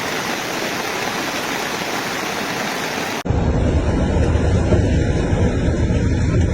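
Fast-flowing floodwater rushing steadily. About three seconds in it cuts abruptly to a low rumble.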